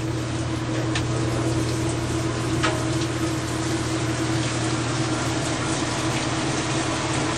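Whirlpool washing machine running, water rushing steadily into the tub over a constant hum.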